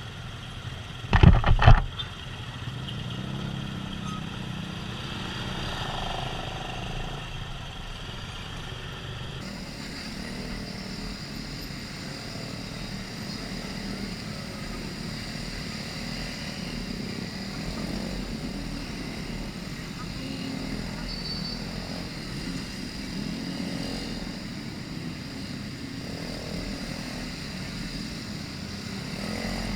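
Motorbike riding noise: steady engine and wind noise on the microphone, with a few loud knocks about a second in.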